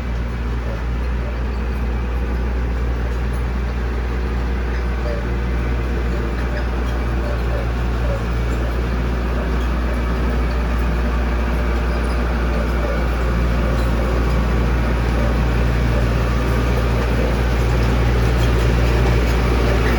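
Heavy diesel construction machinery engine running steadily, a deep low drone that grows slightly louder toward the end.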